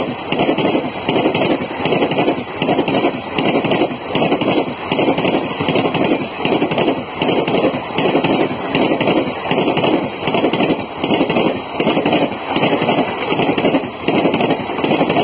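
Passenger coaches of the Tamil Nadu Express passing at speed close by, their wheels clattering over the rails in a steady, even beat of about two pulses a second.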